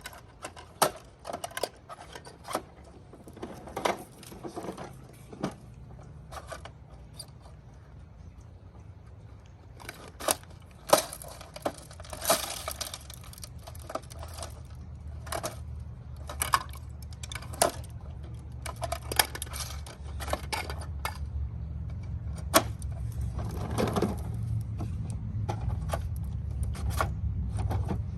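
Hard plastic toy garbage truck parts clicking and clattering in quick, irregular knocks. A low rolling rumble grows louder in the second half.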